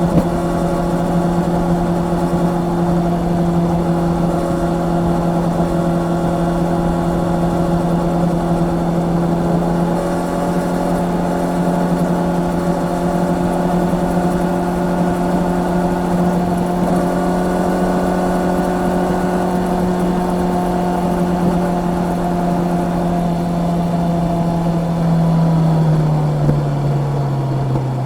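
Honda CB650R's inline-four engine running at steady revs under way, its note holding one pitch. Near the end the pitch drops in two steps as the revs fall.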